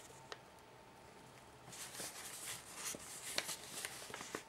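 Paper of an origami model being handled and opened out by hand: faint rustling and crinkling with small creasing clicks, which starts about two seconds in after a near-quiet start with one click.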